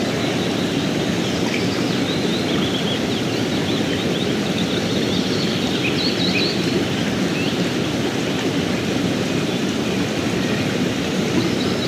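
Steady rushing of river water, with faint, scattered bird chirps high above it.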